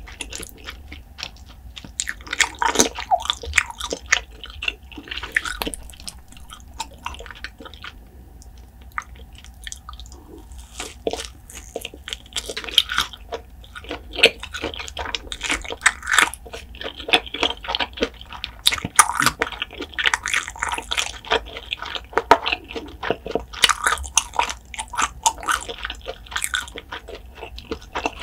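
Close-miked chewing and biting of food: a busy run of small mouth clicks. It thins out for a few seconds about a third of the way in, then picks up again.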